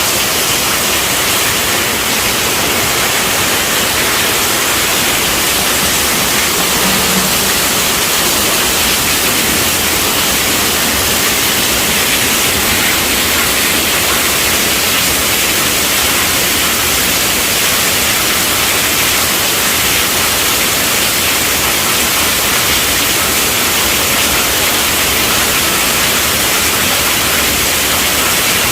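Heavy rain falling on a tent roof: a steady, dense hiss that does not change.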